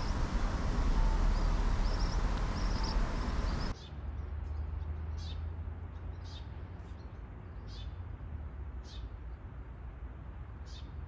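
Wind noise on the microphone with faint high chirps. After a sudden cut, short high bird calls, each sliding downward, repeat about once every second or so over a quiet outdoor background.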